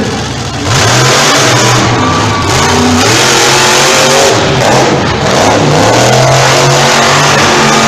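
Monster truck engines revving hard and racing, cutting in loud about a second in, their pitch rising and falling as the drivers work the throttle.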